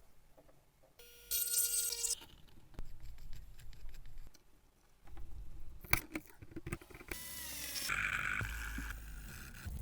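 Small workshop power tool whirring in two short spells, the second slowing in pitch as it spins down, between sharp clicks and taps of small metal parts being handled.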